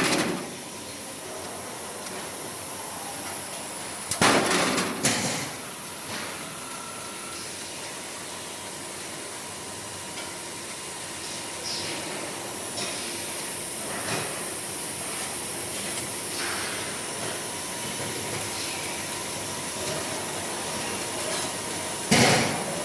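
Wire-tube condenser folding machine and its robot cell running, with a steady hiss and hum, two loud bursts of clatter about four seconds in and near the end, and a few lighter knocks between.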